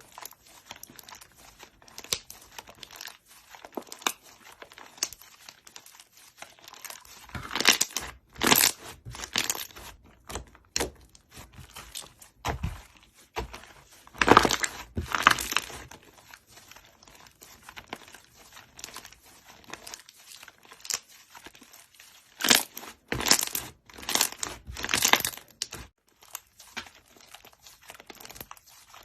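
Slime being squished and worked by hand, making irregular crackling and popping clicks, with several louder clusters of crackles.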